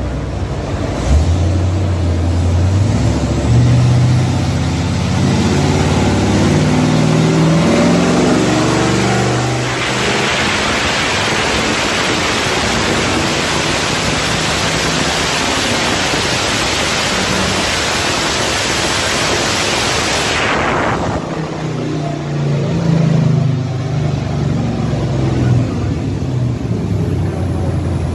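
Chevrolet Bel Air's engine doing a full-throttle pull on a chassis dyno: the engine note climbs steadily in pitch for about eight seconds, becomes a loud roar at the top for about eleven seconds, then drops away as the engine slows, with a few lighter revs near the end.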